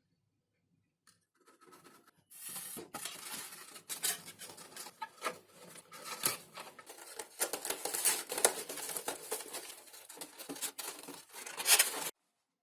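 Close-up crafting sounds of hand work on a foam model plane: scratchy rustling and tearing, with frequent sharp clicks. It starts about two seconds in and cuts off abruptly near the end.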